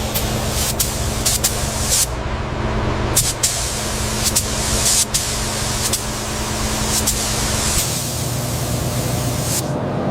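A spray gun hissing, stopping briefly several times, over a steady motor hum.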